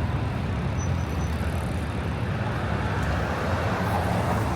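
City street traffic: a steady low rumble of engines and tyres, with a rushing noise from a passing vehicle swelling from about two seconds in.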